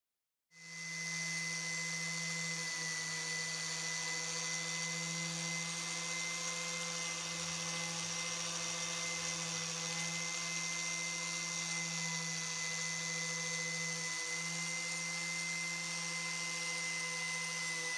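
A power tool's electric motor running at a steady speed, a constant hum with a high whine, starting about half a second in.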